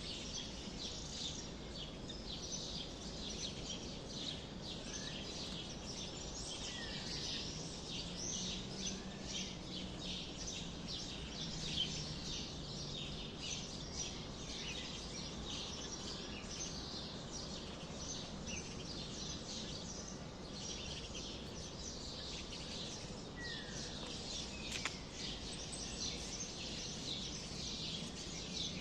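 Many small birds chirping together in a continuous chorus, with short overlapping calls and no pause.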